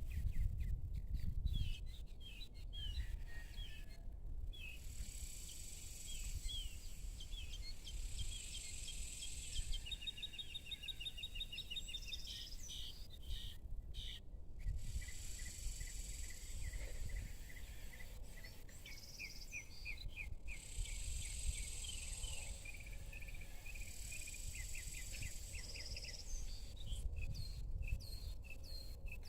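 Evening outdoor ambience: small birds chirping repeatedly, with a fast trill partway through, over a steady high insect buzz that comes and goes, and a low rumble underneath.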